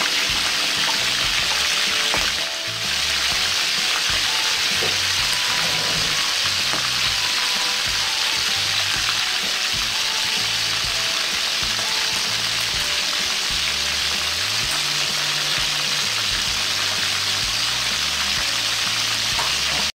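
Shell-on shrimp deep-frying in hot oil in a wok: a steady, dense sizzle.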